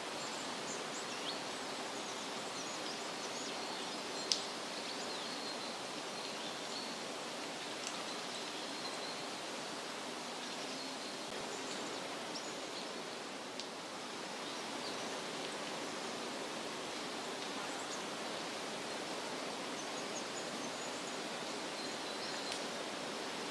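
Steady forest ambience: an even rushing hiss with faint, scattered high chirps of birds, and one sharp tick about four seconds in.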